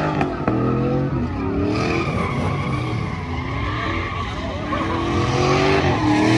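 Truck engines revving hard, their pitch climbing and falling again and again, over a dense hiss of tires spinning and squealing.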